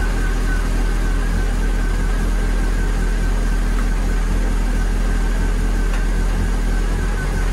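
Renault Clio 182's 2.0-litre four-cylinder engine idling steadily, run up to temperature to bleed air from the cooling system after a new radiator was fitted.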